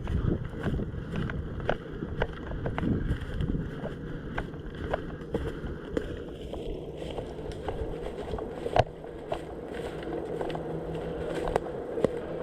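Footsteps at a walking pace, a light knock about every half second, over steady rustling and scuffing noise, with one sharper knock about nine seconds in.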